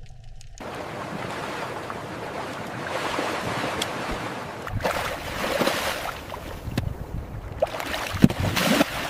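Rushing sea-water noise: a steady wash that cuts in abruptly about half a second in, with louder surges around the middle and near the end.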